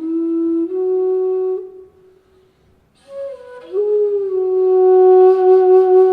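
Handmade bass bansuri in E (Indian bamboo transverse flute) playing a slow solo melody: held notes stepping between pitches, a pause for breath about two seconds in, then a new phrase that slides up into a long held note.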